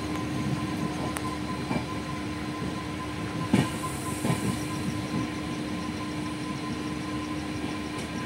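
Passenger train coach running on the rails, a steady rumble of wheels and track with a constant hum. There is a sharp clack about three and a half seconds in, followed by a couple of softer knocks.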